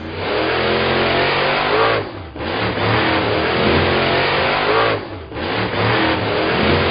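Cartoon vehicle engine sound effect revving, in three runs with short breaks about two and five seconds in.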